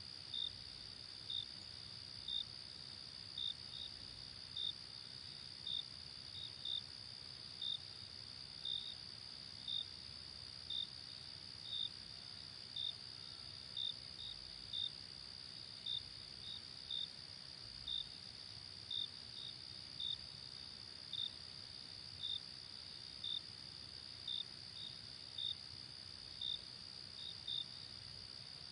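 Insects chirping: a steady high-pitched trill with a louder, evenly repeated chirp about once a second, sometimes doubled.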